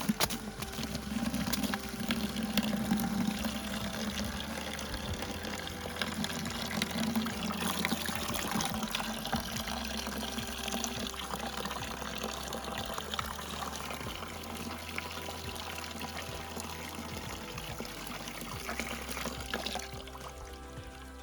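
Water pouring and splashing steadily, dropping off about twenty seconds in, with quiet background music underneath.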